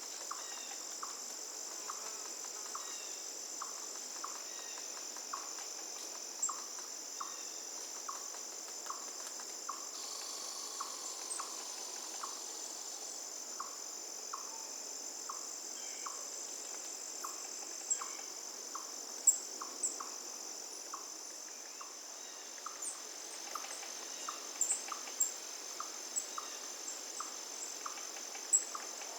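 Forest night-insect chorus: a steady high-pitched cricket trill, with a short lower chirp repeating about every two-thirds of a second. A few sharper, louder chirps break in during the second half.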